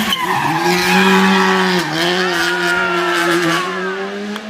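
Race car engine running hard at high revs on a slalom course, holding a steady note that dips briefly about two seconds in.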